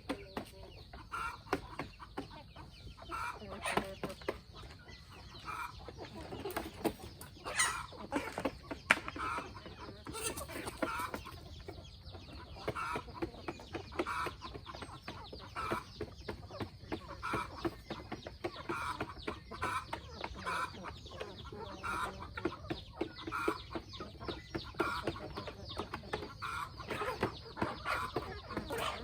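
A flock of chickens clucking, with many short calls overlapping throughout, among frequent sharp clicks and taps.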